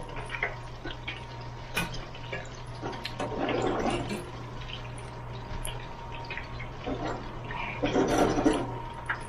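Hot frying oil bubbling and crackling in an electric turkey fryer, with two louder rushes of bubbling and scattered small clicks over a steady hum.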